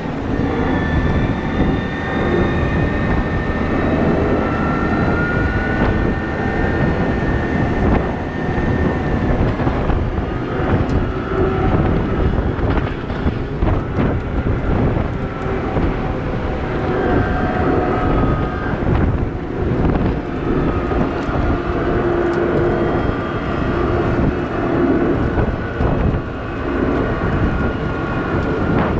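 Caterpillar 972M XE wheel loader at work: a loud, steady engine drone with whining tones that rise and fall as it works.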